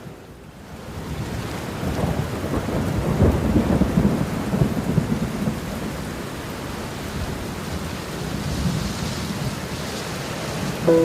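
A thunderclap rolls in over steady rain: the rumble builds about a second in, is loudest a few seconds later, then fades back into the even hiss of the rain.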